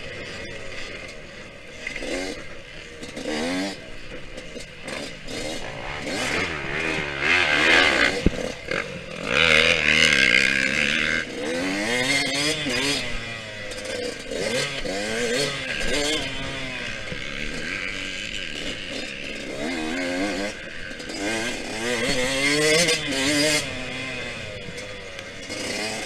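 Yamaha YZ125X single-cylinder two-stroke dirt bike engine revving up and down again and again as it is ridden hard around a motocross track, with a short burst of rushing noise about seven seconds in and another about ten seconds in.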